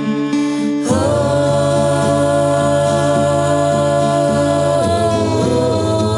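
Music: a singing voice, heard as a choir-like sound, holds one long note starting about a second in, then moves to new notes near the end.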